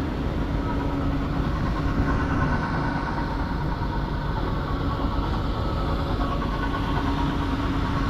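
A Ford L-800 fire truck's Ford 391 gas V8 running steadily.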